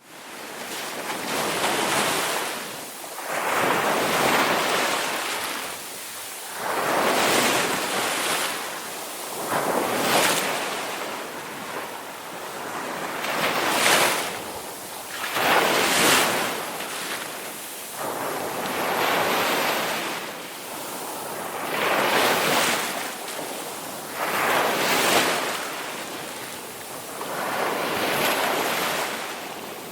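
Ocean surf: waves breaking and washing in one after another, a rushing surge rising and falling every two to three seconds.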